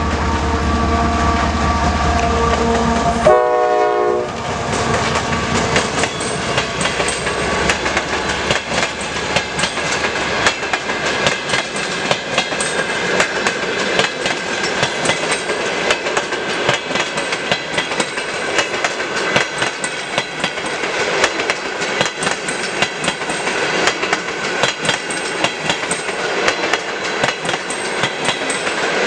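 TE33A diesel locomotive with its GE twelve-cylinder diesel running close by, giving a short horn note about three seconds in as it passes and its engine rumble falls away. After that the passenger cars roll by, wheels clicking rapidly and continuously over the rail joints as the train pulls out.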